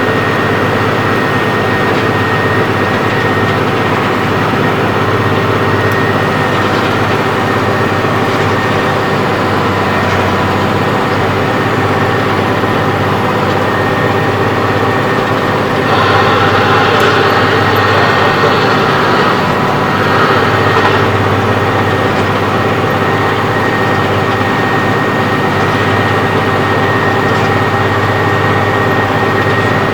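Case IH Magnum 7210 tractor's six-cylinder diesel running steadily at working speed, driving a power harrow. A brighter hissing noise joins for about five seconds past the middle.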